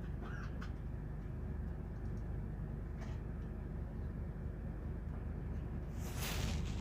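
Diesel engine of a Scania Touring HD coach running steadily with a low rumble. A short hiss comes about six seconds in.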